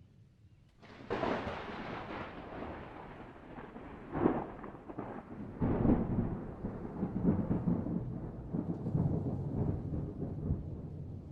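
A thunderclap breaks suddenly about a second in and rolls on as a long rumble, with sharper cracks about four and six seconds in.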